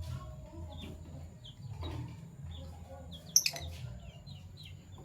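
Fischer's lovebirds chirping: many short, high chirps in quick succession, with one sudden, much louder sharp sound about three and a half seconds in.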